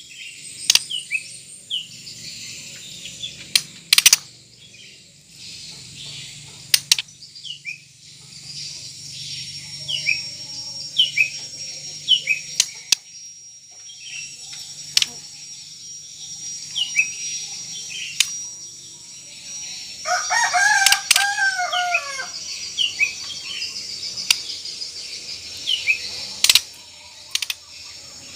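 White-rumped shama giving its harsh 'kretekan' call, a run of short falling chirps broken by sharp loud clicks. This is the agitated call that stirs a rival male into answering. About twenty seconds in, a louder, lower call with falling notes lasts around two seconds.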